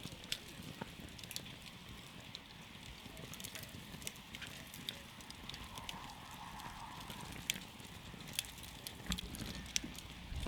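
Wood campfire burning: a steady low hiss with frequent sharp pops and crackles, a few louder snaps near the end.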